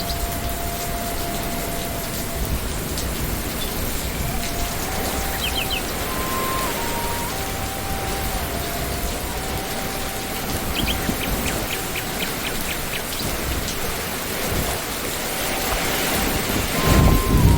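Steady rain falling on leaves and ground. Near the end a low rumble of thunder swells up. A faint held tone steps slowly between a few pitches, and there are brief rows of faint high chirps.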